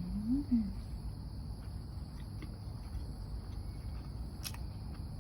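Steady high chirring of crickets, with a short hummed 'mm' that rises and falls near the start as the eater chews a mouthful of salmon sushi. A single sharp click comes near the end.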